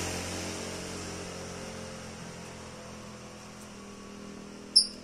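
A motor-like hum with several steady pitches, fading away steadily as a machine winds down or is switched off. A single short, sharp, high chirp about a second before the end.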